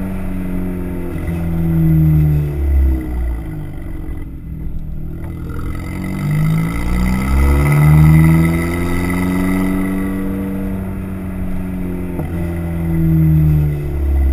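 Exhaust note of a tuned, turbocharged VW GTI four-cylinder through an AWE cat-back and Eurojet downpipe. The revs climb and fall back several times: a rise in the first couple of seconds, a dip to a lull about four seconds in, another climb that holds a while, and a last rise near the end.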